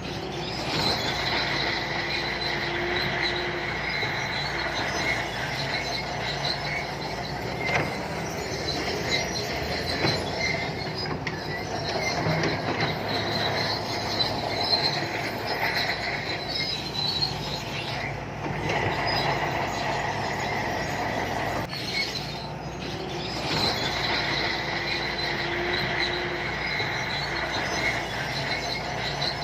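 Shantui crawler bulldozer at work: the diesel engine running steadily under load while the steel tracks squeal in high thin tones and clank.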